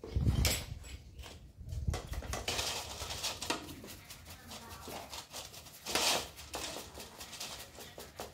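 Bicycle parts being worked on by hand: a couple of heavy knocks, then a long run of irregular rapid clicking and ticking.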